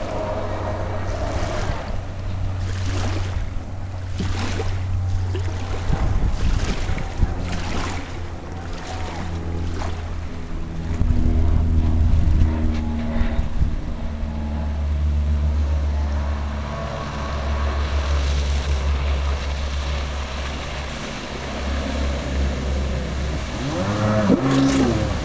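1993 Kawasaki 750SX stand-up jet ski's two-stroke twin running on the water, its note changing as the throttle is worked. Bursts of rushing noise come in the first half, and the engine revs up and down near the end.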